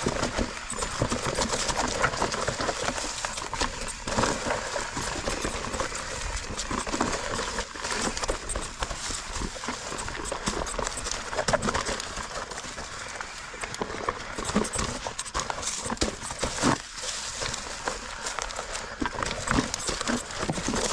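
Mountain bike rolling over rocky trail: tyres crunching over rocks with a steady clatter of small knocks and rattles from the bike.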